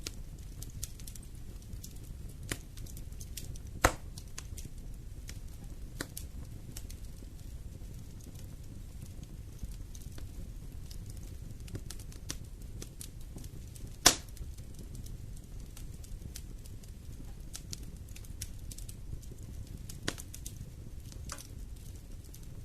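Wood fire burning in a fireplace: a low steady rumble of flame with scattered crackles and pops, two sharp loud snaps about four seconds in and about fourteen seconds in.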